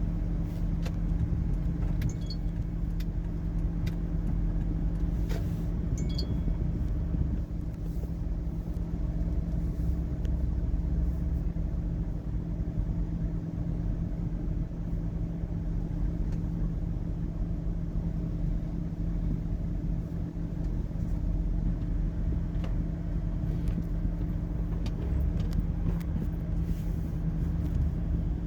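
Steady engine and road drone inside a moving car, with a low hum holding two even tones and a few faint clicks.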